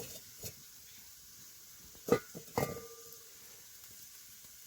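A metal utensil knocks against a cooking pot: a light knock, then two sharp knocks about two seconds in, the second ringing briefly.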